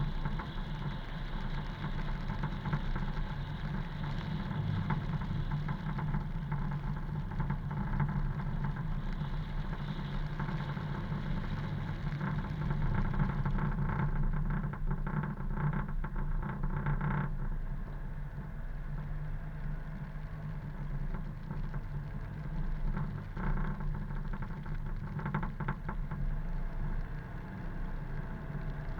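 A car driving along: a steady engine hum under a wash of road and tyre noise, a little quieter in the second half.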